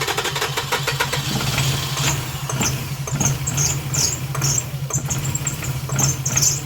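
The starter cranks the 2005 Toyota Highlander's V6 steadily with a fast even rhythm, and the engine never catches: a crank-no-start. From about two seconds in, repeated high chirps ride over the cranking.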